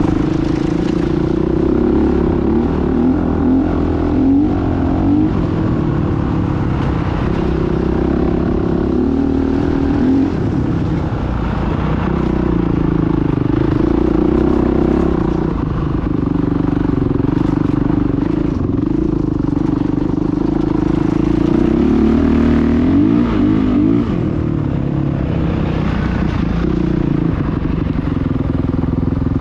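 Motocross dirt bike engines running hard, their pitch rising and dropping over and over as the throttle is opened and closed.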